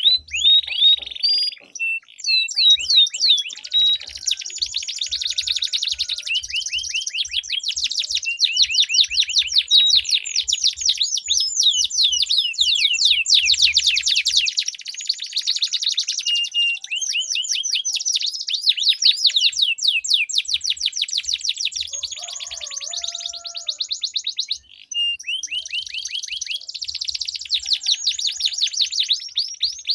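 Domestic canaries singing in a duel, with long rolling trills of rapidly repeated notes and a short pause about 25 seconds in.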